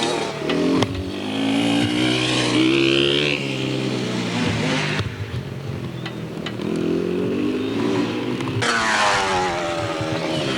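Dirt bike engine revving as it rides, its pitch rising and falling in repeated surges.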